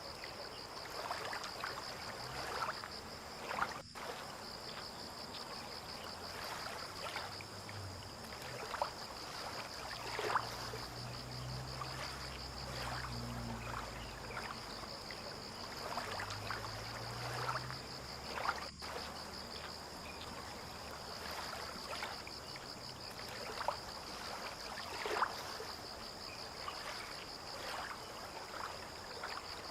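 Water lapping and trickling at a harbour edge in small, irregular splashes, over a steady high insect trill. A low drone swells and fades in the middle.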